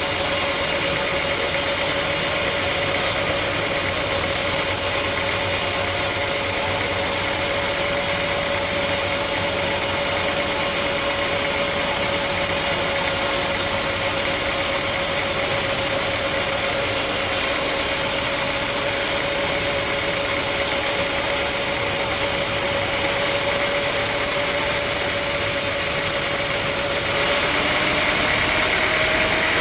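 Sawmill machinery running steadily with a continuous whine. Near the end the pitch steps up slightly and the sound gets a little louder.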